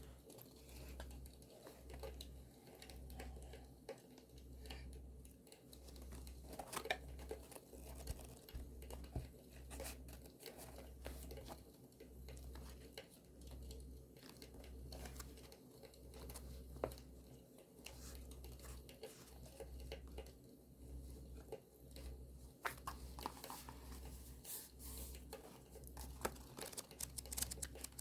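Close-up paper handling for journaling: paper tearing and crinkling, with scattered small clicks and crackles over a faint campfire sound.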